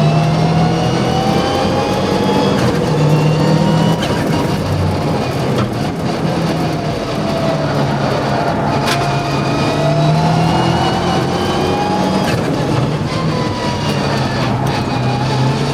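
Mitsubishi Evo VI Group A rally car's turbocharged 2.0-litre four-cylinder engine under hard acceleration. Its pitch repeatedly rises and drops back as it changes gear.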